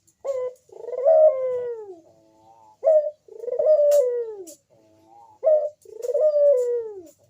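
Crossbred puter dove (Barbary dove) cooing. Three repeated phrases, each a short note followed by a long coo that falls in pitch, with softer notes between them.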